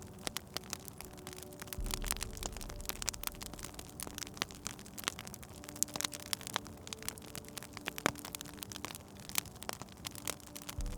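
Wood fire crackling, with frequent sharp irregular pops over a low rumble that swells about two seconds in.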